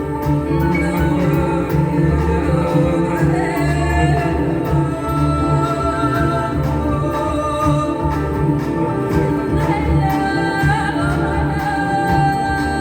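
Folk choir singing, several voices holding long notes together over a steady low drone.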